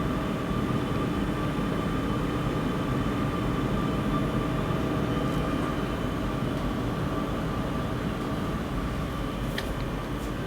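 Paint spray booth's ventilation and extraction fans running: a steady rushing whir with a constant hum in it. A small click comes near the end.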